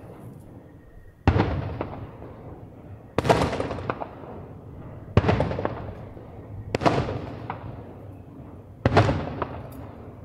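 Aerial fireworks shells bursting: five loud booms roughly two seconds apart, each dying away in a long echo.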